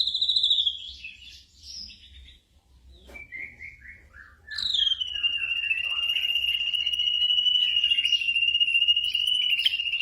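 Black drongo singing: a rapid trill fades out in the first second, a few short scattered notes follow, and about halfway a long rapid trill starts high, drops and then holds steady at one pitch.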